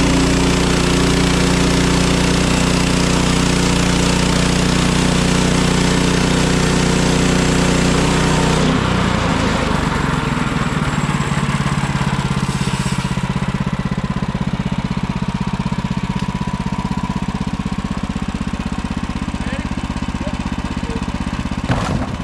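Portable sawmill's small engine running under load with the blade cutting through a log, a dense hiss over the engine; about nine seconds in the cutting noise stops and the engine drops back to a steadier, lower run as the cut ends.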